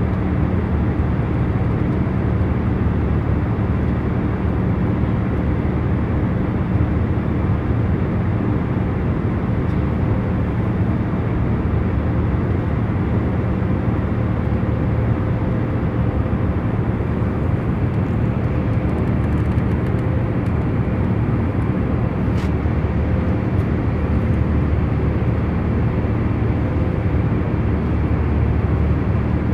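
Airliner cabin noise in cruise flight: a steady, even low rush of engine and airflow, with faint steady hums running through it.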